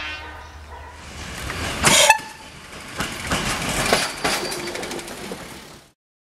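A locomotive horn's chord tails off right at the start. About two seconds in comes a brief, loud burst, followed by a passing train's wheels clattering over rail joints. The sound cuts off suddenly near the end.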